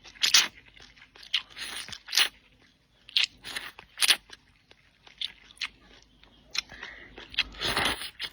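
Close-up eating sounds from a mukbang: a person biting and chewing, a string of short wet crunchy bursts with a longer, louder one a little before the end.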